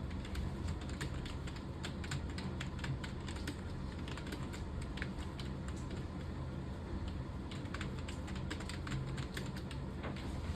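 Computer keyboard being typed on quickly and steadily, a run of irregular key clicks over a low steady hum.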